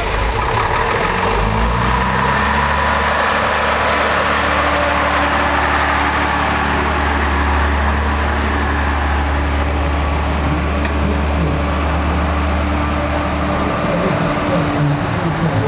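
Heavy truck engine running close by, a steady deep drone over broad engine and exhaust noise; the deep drone stops near the end.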